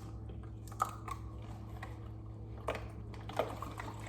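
Plastic water bottles being handled and opened: a few separate sharp clicks and crinkly plastic crackles as the caps are twisted and the thin bottles squeezed.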